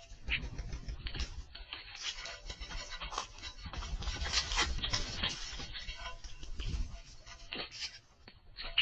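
Scratching and scraping of red-winged blackbirds scuffling on a bird feeder, over a low rumble; it is busiest about halfway through and eases off near the end.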